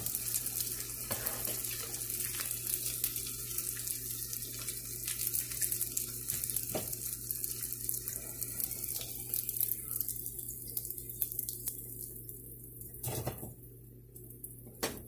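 Boti rolls deep-frying in hot oil: a steady crackling sizzle that thins out after about ten seconds as the rolls are lifted out of the pan. A few light knocks of a metal spoon against the pan come through.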